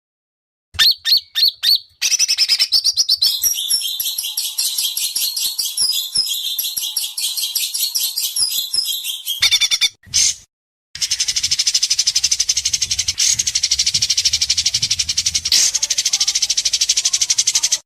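Songbird masteran recording of sharp, rapid 'besetan' trills. A few separate high notes are followed by a long, fast trill, a brief break, and then another even faster rattling trill that cuts off abruptly.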